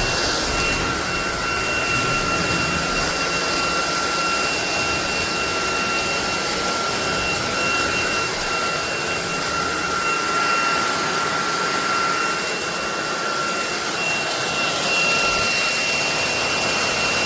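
SunSare X11 cordless stick vacuum running steadily: an even rush of air with a steady high-pitched motor whine.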